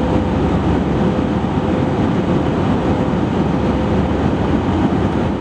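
Airbus A319 cabin noise in flight: a steady rush of engine and airflow noise with a thin, steady mid-pitched hum running through it.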